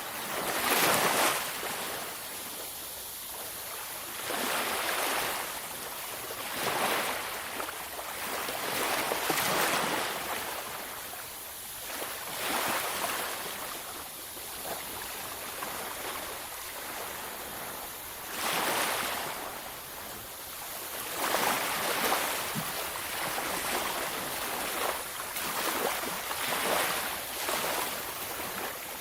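Ocean waves breaking on a beach, each wash of surf swelling and fading every few seconds, with a louder break a second in and another near the middle.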